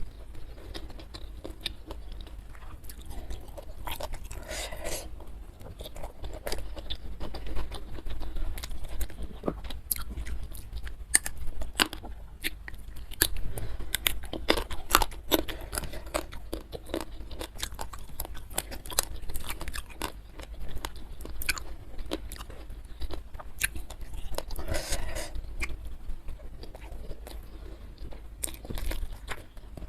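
Close-miked chewing and crunching of a mouthful of food, most likely the stir-fried genjer with tauco just announced, with many small wet mouth clicks. The chewing is steady, with a few louder bites along the way.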